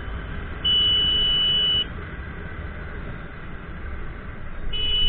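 A horn sounds twice, a long steady blast of about a second and then a short one near the end, over the steady wind and road noise of a motorcycle ride.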